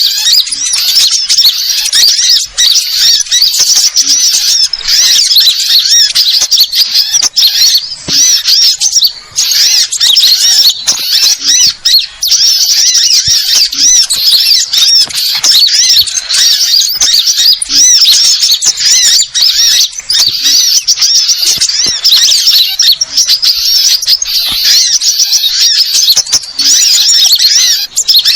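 Dense, unbroken chorus of many small birds, sunbirds among them, chirping and twittering over each other in agitated high calls: the 'burung ribut' mobbing chatter used as a bird-trapping lure.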